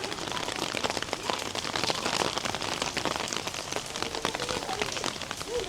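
Steady rain falling, with many separate drops ticking sharply close by against a continuous hiss of rainfall.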